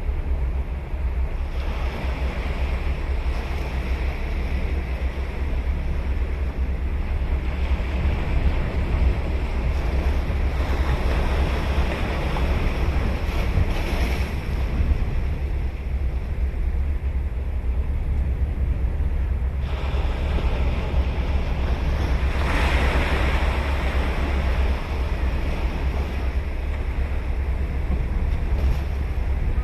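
Ocean surf: waves breaking and washing in, swelling several times, over a steady low rumble of wind on the microphone.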